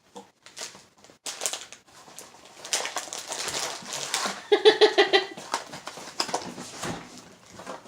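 Crunching and chewing of crispy filled crepe snacks, a run of crackly noise over several seconds. About halfway through comes a short pitched vocal noise lasting under a second.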